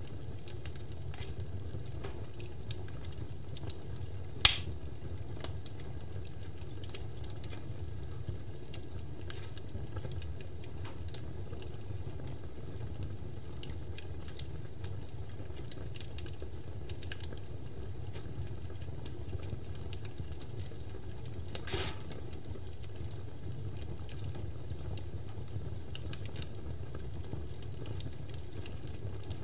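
Large outdoor bonfire burning, with a steady low rumble and scattered wood crackles. There is a sharp pop about four and a half seconds in and another about twenty-two seconds in.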